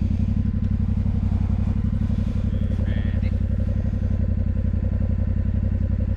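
Motorcycle engine running steadily at an even pitch, with a fast regular pulsing beat and no revving.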